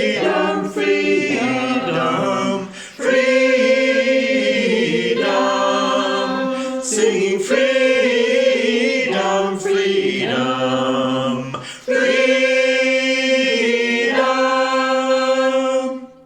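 A choir singing a round in overlapping parts, mostly in long held notes. It ends on a sustained chord that cuts off right at the end.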